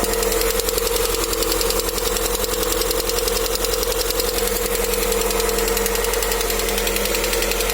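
Lada Vesta engine running steadily with a fast, even knocking. The car is new, at 575 km, and the dealer says this knock is normal for an engine still being run in.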